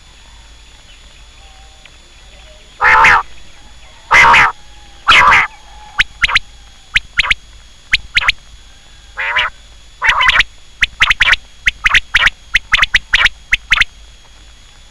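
Quail calling: after a few quiet seconds come several loud, harsh calls of about half a second each, then, in the second half, a quick run of short, sharp notes at about three a second.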